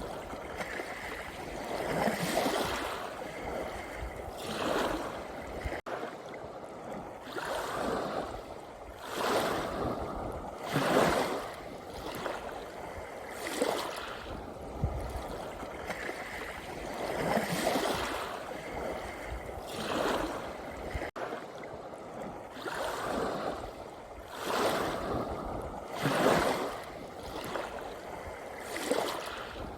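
Sea waves washing in on the shore, one surge of surf after another about every two seconds.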